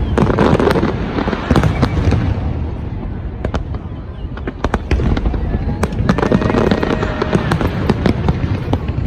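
Fireworks display: many sharp crackling pops and bangs over a continuous low rumble.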